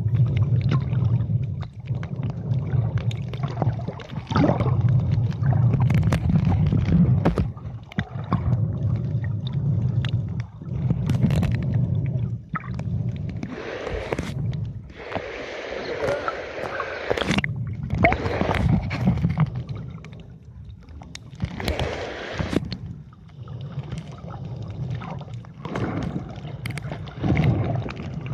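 Water sloshing and gurgling against the microphone over a low rumble, with irregular clicks and several louder bursts of splashing.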